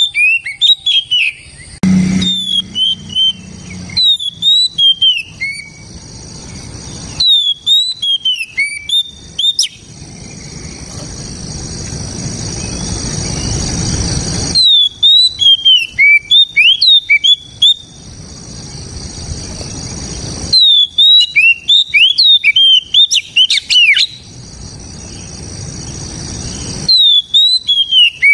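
Oriental magpie-robin singing loud, clear whistled phrases in full song, in repeated bouts of quick sweeping notes separated by short breaks. A steady high-pitched hiss runs underneath.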